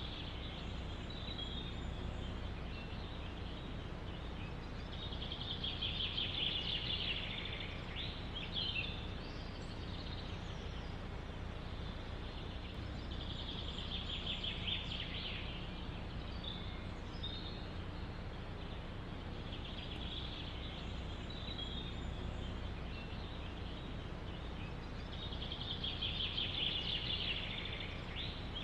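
A songbird singing a trilled phrase about two seconds long, four times, roughly every six to seven seconds. Behind it runs a steady low rush of forest wind.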